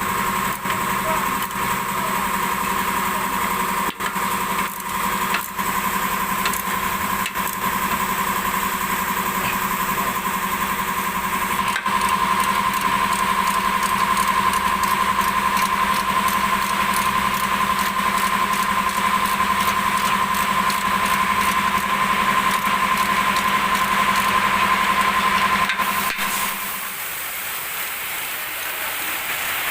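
A machine's motor running with a steady whine and hiss, stopping near the end, with a few sharp clicks along the way.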